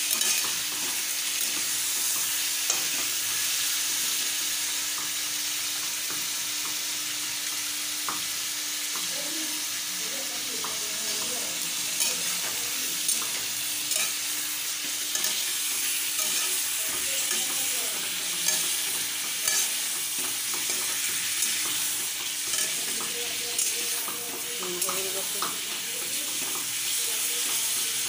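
Chicken pieces sizzling in hot oil in a steel kadai, with a steel spatula scraping and knocking against the pan now and then.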